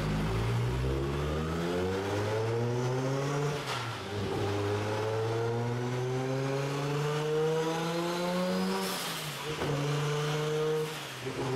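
Turbocharged Toyota Supra straight-six revving on a chassis dyno. The engine note climbs in pitch for about three and a half seconds, drops, then climbs again more slowly until about nine seconds in. There it breaks off with a short burst of noise and settles to a lower, steadier note.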